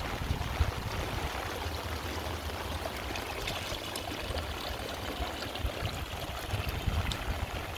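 Heavy rain falling steadily as an even hiss of water, with small drop ticks and a low rumble underneath.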